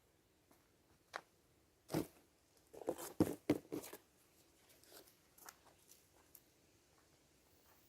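Handling noises: a scatter of short knocks and clicks with crunching rustles, busiest and loudest from about two to four seconds in, then a few lighter taps.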